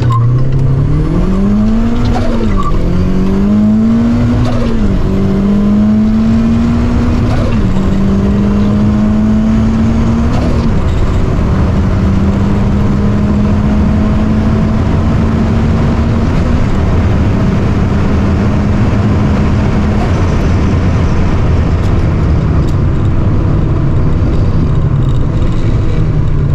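Mazda MX-5 (NA) four-cylinder engine under full-throttle acceleration, heard from inside the cabin: the pitch climbs and drops back at four upshifts in the first ten seconds, then holds high in top gear, still rising slowly. About twenty seconds in the engine note falls away as the driver backs off, leaving road and wind noise.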